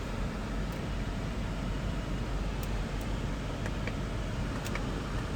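Lexus GX 470's 4.7-litre V8 idling, heard from inside the cabin as a steady low hum under an even hiss, with a few faint light clicks.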